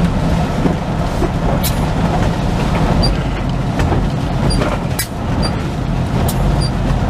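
Semi truck cab interior while driving in the rain: steady diesel engine rumble and road noise, with a few scattered sharp clicks.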